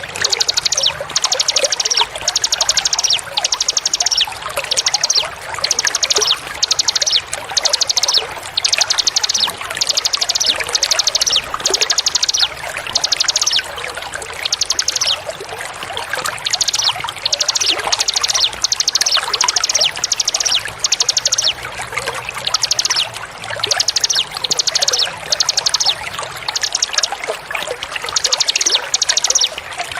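Recorded songbird singing short, rapid high trills about once a second, over the steady sound of running, pouring water.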